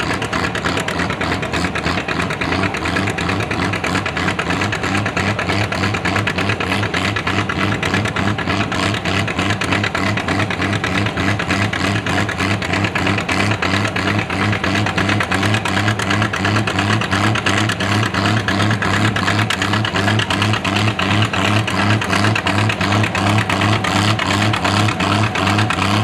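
Classic farm tractor engine running steadily with a fast, even low pulse, growing a little louder in the second half.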